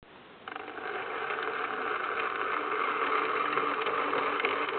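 A Hornby model locomotive's small electric motor and gears whirring steadily as it runs. The sound starts about half a second in.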